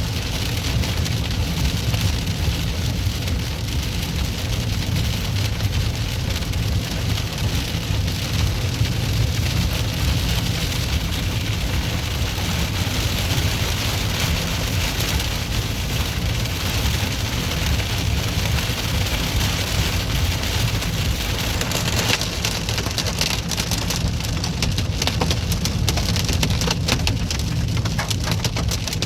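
Heavy thunderstorm rain pouring steadily, with a low rumble underneath. From about two-thirds of the way through, dense sharp clicking hits join the downpour.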